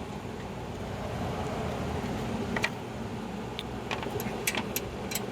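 A few light clicks and taps of metal mower-deck parts being handled, scattered through the second half, over a steady low background rumble.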